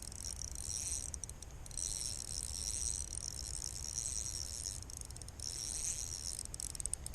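Insects chirring in a high, shrill drone of a few steady pitches, dipping briefly about a second in and again around five seconds, with low rumble underneath.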